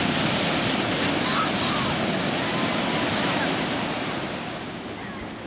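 Ocean surf: a steady rush of breaking waves, loudest for the first three seconds or so and then easing off.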